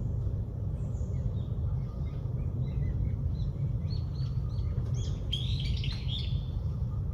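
Small birds chirping: a run of short high chirps that grows busier, with a dense burst of calls about five to six seconds in, over a steady low rumble.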